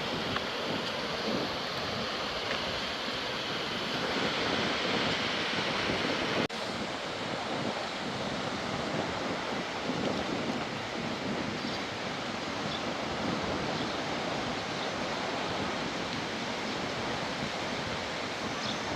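Steady rushing noise of a rainstorm, with wind buffeting the microphone. It breaks off for an instant about six and a half seconds in, then carries on.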